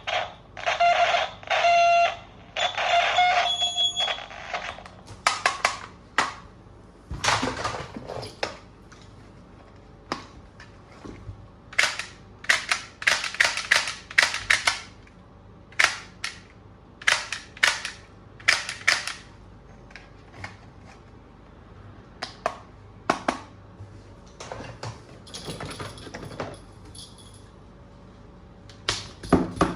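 Plastic toy guns: a few seconds of electronic beeping sound effects, then many sharp plastic clicks and snaps, some in quick runs, from the toys being handled, cocked and dry-fired.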